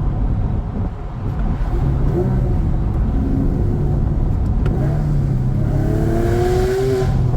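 Porsche six-cylinder sports car engine, fitted with an aftermarket header and exhaust, pulling hard under full acceleration in second gear, its note rising steadily for several seconds and then breaking off right at the end as the revs drop.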